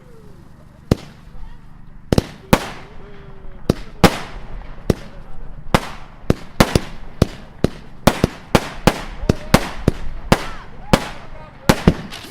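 Fireworks going off: a series of sharp bangs, only a few at first, then coming faster from about two seconds in, two or three a second towards the end.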